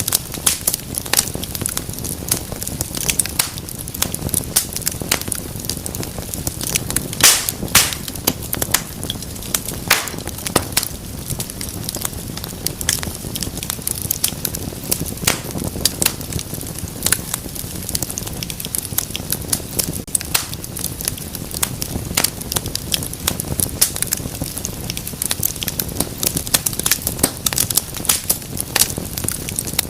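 Wood fire in a fireplace crackling and popping, with sharp irregular snaps over a steady low rumble of the flames.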